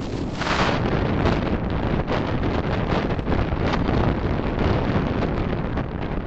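Steady road and traffic rumble from a moving vehicle, with wind buffeting the microphone in irregular gusts.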